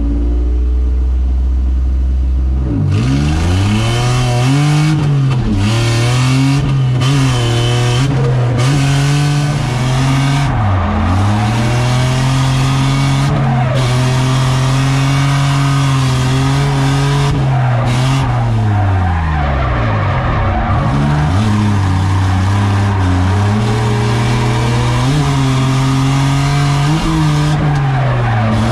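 BMW E30 drift car's engine running hard at high revs, its pitch repeatedly dropping and climbing again as it drifts, with tyres squealing from about three seconds in.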